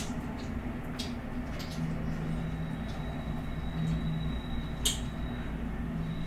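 Eating sounds from a noodle mukbang: a few sharp mouth and utensil clicks, the loudest about five seconds in, over a steady low hum.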